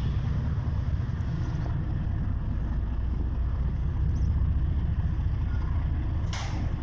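Train running with a steady low rumble, with one short sharp sound about six seconds in.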